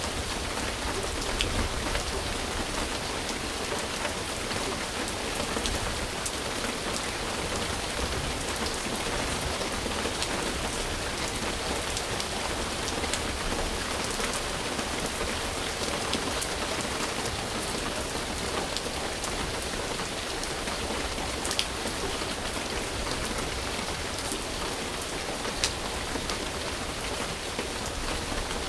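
Steady rain falling on a surface, an even hiss with scattered sharp drop ticks, a couple of them louder near the end.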